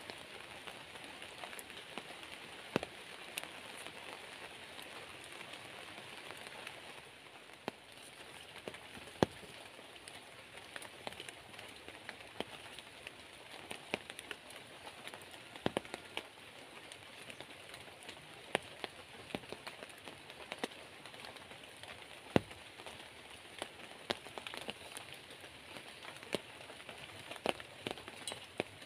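Steady rain with irregular louder drops that land as sharp ticks.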